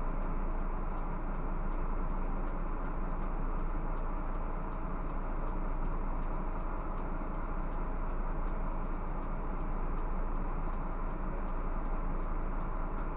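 Scania bus under way: steady engine and road noise with a constant low hum, and faint ticks at an even pace.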